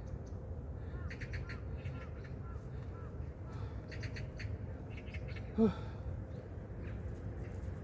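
Wild birds calling: small repeated chirps, with one louder, short cry about five and a half seconds in, over a steady low background rumble.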